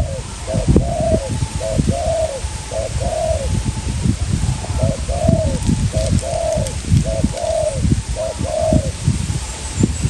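Spotted dove cooing in two series of repeated, arched coos. Strong wind buffets the microphone with a low rumble.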